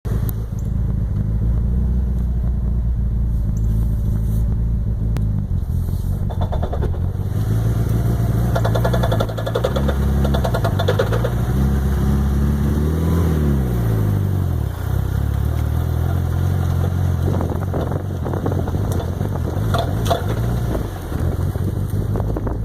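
Mitsubishi Lancer Evolution VI's turbocharged four-cylinder engine running in gear at low speed, its pitch rising and falling. Bursts of knocking come in several times, the clunking from under the car during sharp turns that the owner suspects is in the rear differential, carbon driveshaft or transfer case.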